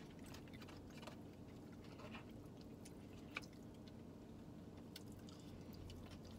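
Faint chewing and eating sounds, with a few light clicks of a fork against a takeout burrito bowl, over a low steady hum.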